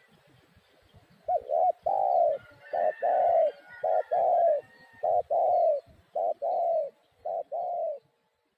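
Spotted dove (tekukur) cooing in a steady repeated phrase: a short coo then a longer, arched coo, six times over, stopping near the end. Faint chirps of small birds sound behind it partway through.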